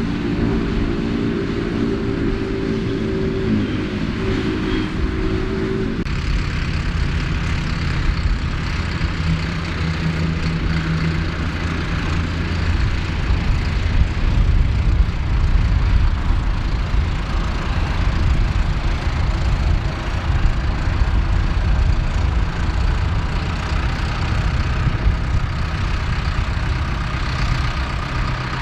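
Ford 8630 tractor's engine running steadily while the Mengele SH40N forage harvester works. About six seconds in, the sound shifts abruptly from a higher set of steady tones to a lower, deeper engine note with a rushing noise over it.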